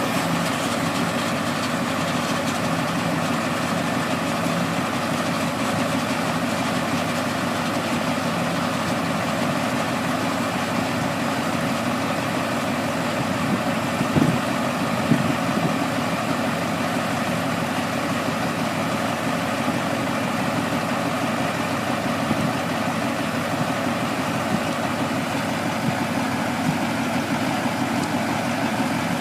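Truck engine idling steadily, with two short knocks about halfway through.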